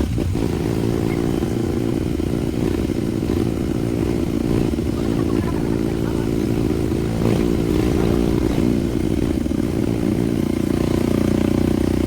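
Motorcycle engine running while riding, with some rattling.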